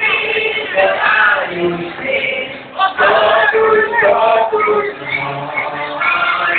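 Men's and women's voices singing a church hymn together, in a muffled recording that cuts off the high frequencies.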